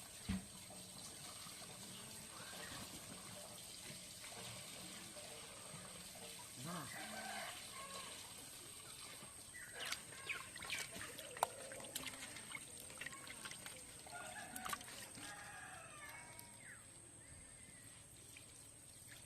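Water trickling and pouring while small fish are washed by hand, with scattered clicks and knocks, busiest about halfway through.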